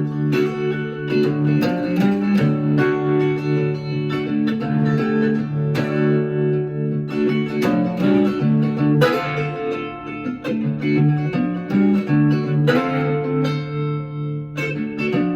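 Blues guitar playing an instrumental break, plucked notes over a repeating bass line.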